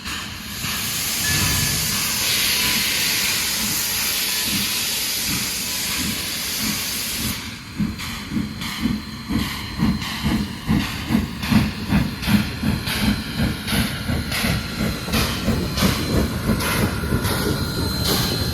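Steam locomotive blowing off a loud, steady hiss of steam. About seven seconds in, the hiss stops and the engine starts chuffing in regular exhaust beats as it gets the train moving.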